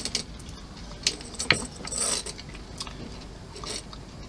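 Small plastic model parts being handled and fitted: a series of sharp clicks and taps with a brief scraping rustle about two seconds in.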